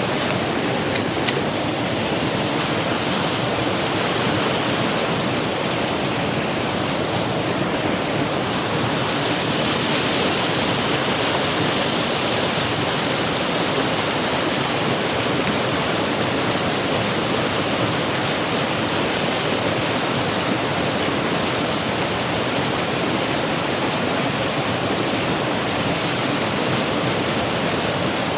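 Mountain creek rushing, a steady close wash of running water.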